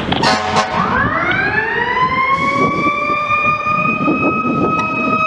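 Fire truck's mechanical siren winding up from low to high pitch over about a second and a half, then holding one steady howl. It is preceded by a short horn blast.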